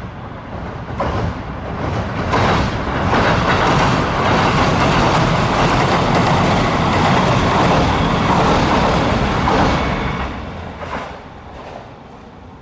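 A JR Suigun Line diesel train passing by: a rumble that builds, holds for several seconds with a few clicks of the wheels over rail joints, then fades away.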